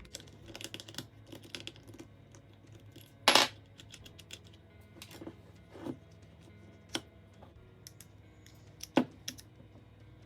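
Small wrench and chainsaw parts clicking and clinking as a Saker mini electric chainsaw is loosened and opened up. The clicks are scattered, with the sharpest clinks about three seconds in and near the end.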